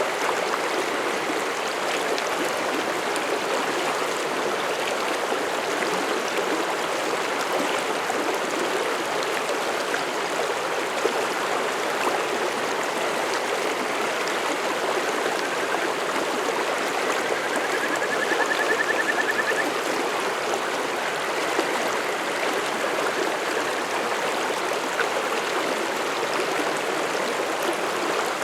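Mountain stream flowing over rocks, a steady, even rush of water. About two-thirds of the way through, a faint high trill lasts a couple of seconds.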